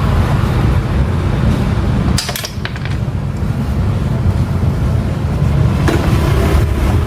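Steady low rumble of motor vehicle engines, with a few light metallic clinks about two seconds in and again near the end.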